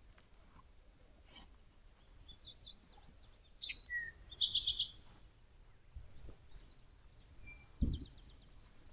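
Songbird singing in woodland: a run of high chirps and a fast trill through the middle, with a few more chirps later. A short low thump comes near the end.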